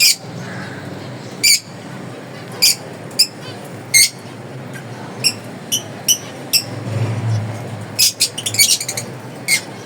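Finches giving short, high chirping calls, spaced a second or so apart at first, then a quick flurry of calls about eight seconds in, over a steady low hum.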